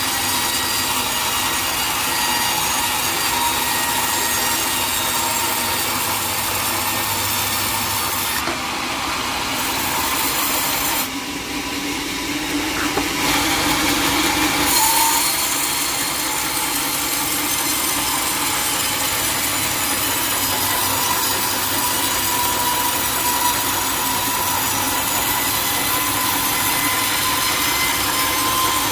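A sawmill saw cutting through teak wood, a steady, continuous cutting noise with a faint steady whine. About nine to fifteen seconds in the sound briefly changes, losing some of its hiss while a lower note swells, then settles back into the cut.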